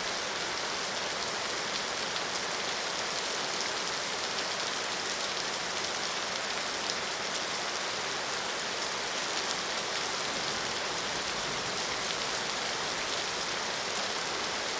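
Steady rain falling, an even hiss of many drops with faint individual drop patters.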